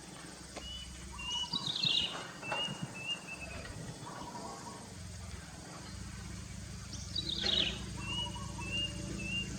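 Bird calls: a run of short, evenly spaced chirps with two quick falling notes among them, pausing for a few seconds in the middle, over a low steady hum.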